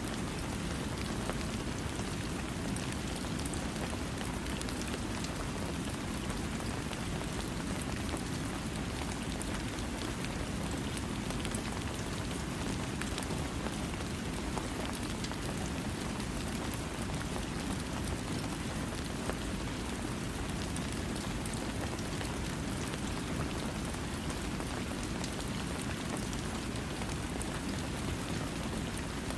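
Steady rainfall without thunder, a constant even hiss of rain with a full low rush and fine scattered drop ticks.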